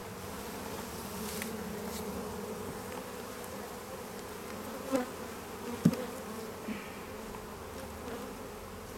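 Honeybees buzzing around an open hive, a steady hum of many bees in flight. A sharp knock about six seconds in, with a softer one just before it.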